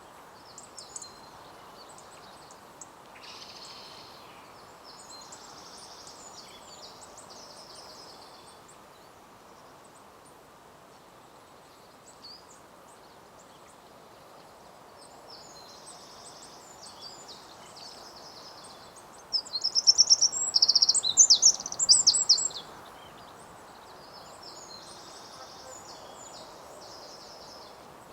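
Small birds singing at intervals, high-pitched phrases over a steady background hum of outdoor noise. About two-thirds of the way through, a close bird gives a loud burst of rapid high notes lasting about three seconds.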